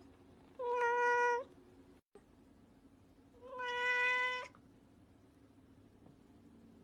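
Domestic cat meowing twice, two drawn-out, level-pitched meows about three seconds apart.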